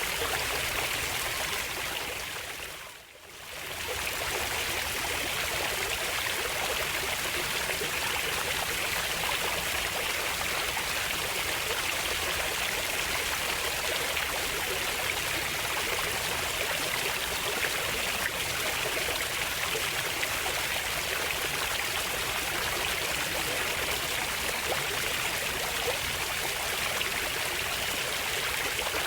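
Steady rush of flowing water. It fades down briefly and comes back about three seconds in.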